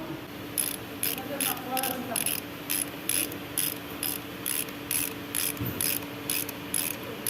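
Hand ratchet wrench being worked in short strokes, each stroke a quick run of clicks, about two strokes a second.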